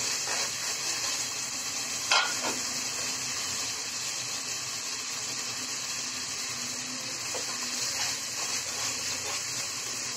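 Spiced duck curry sizzling as it fries down in a pot, stirred and scraped with a wooden spatula. A sharp knock of the spatula against the pot about two seconds in.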